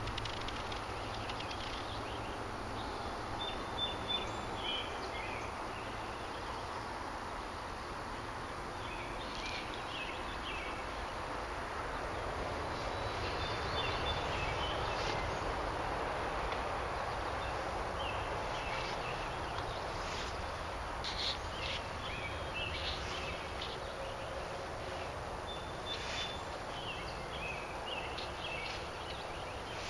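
Outdoor ambience: a small bird calls in short, high chirping phrases, repeated every few seconds over a steady hiss of background noise.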